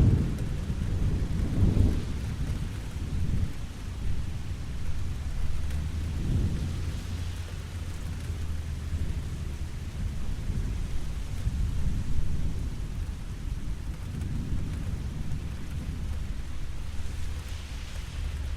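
Steady rain with thunder rolling low in the background. The deep rumble swells about a second or two in, again around six seconds, and once more near the end.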